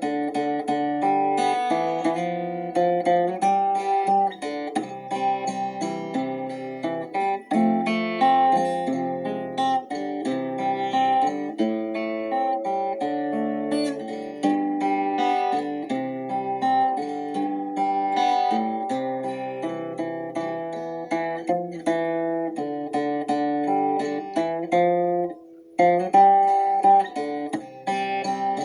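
Instrumental Christian praise music played on plucked acoustic guitar, a slow run of picked notes and chords. The playing drops out briefly about 26 seconds in, then picks up again.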